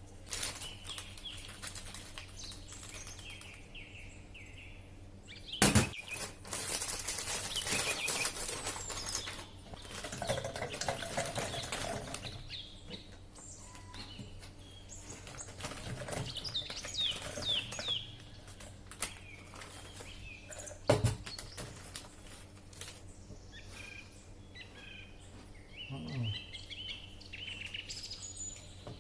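Small birds chirping at intervals, with a long stretch of rustling noise and two sharp knocks from food preparation.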